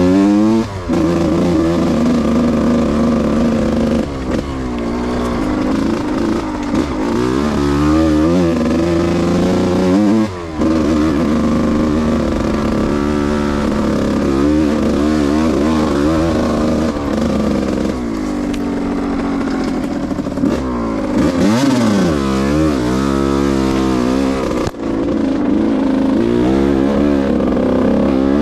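Yamaha YZ125 two-stroke single-cylinder dirt bike engine under riding load off-road, its revs climbing and falling over and over, with a few brief cuts of throttle.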